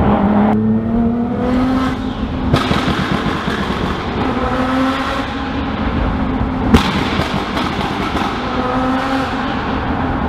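Tuned Nissan GT-R R35's twin-turbo 3.8-litre V6, modified to 650 PS, running hard through its aftermarket exhaust, the pitch climbing and then breaking off abruptly twice early on. There is a single sharp crack about two-thirds of the way through.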